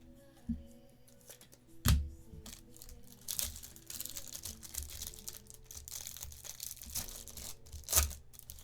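A trading-card pack wrapper torn open and crinkled, with a few sharp knocks on the table, the loudest about two seconds in and near the end. Faint background music underneath.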